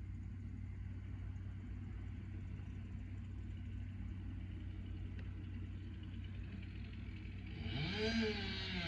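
An engine running steadily at low speed, a low, even drone. Near the end a voice comes in over it.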